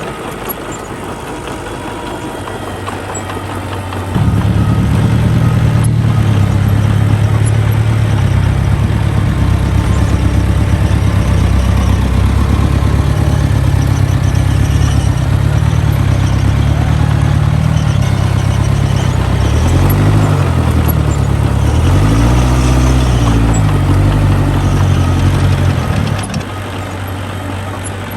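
Heavy construction machine's diesel engine idling, then opened up hard about four seconds in and held under load for some twenty seconds. Its pitch dips and climbs back twice near the end, then it drops back to idle shortly before the end.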